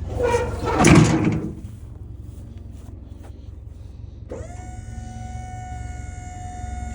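Truck liftgate: a loud metal clatter in the first second and a half, then about four seconds in its electric hydraulic pump motor starts with a short rising whine and runs at a steady pitch as it raises the gate. A low engine idle hum runs underneath.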